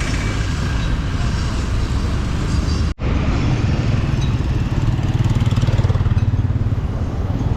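Vehicle engine running with road and traffic noise. The sound breaks off for an instant about three seconds in, and then the low engine hum grows stronger, with a fine, even pulsing.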